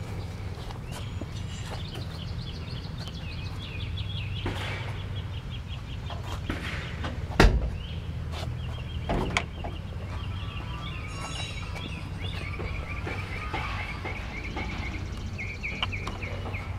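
Birds chirping over a steady low hum, with one sharp knock about seven seconds in.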